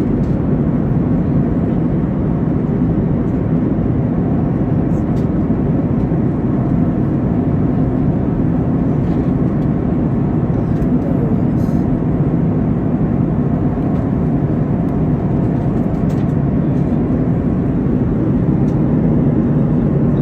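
Steady, loud drone of a jet airliner in flight heard from inside the passenger cabin: engine and airflow noise, low and unchanging.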